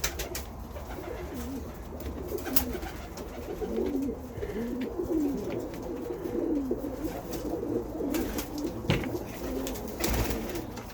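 Several domestic pigeons cooing over one another in a loft, low rolling calls overlapping almost without pause from about a second and a half in. A few sharp clicks and knocks sound among them.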